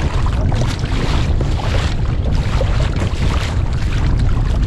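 Wind buffeting the microphone, with choppy sea water splashing against a kayak.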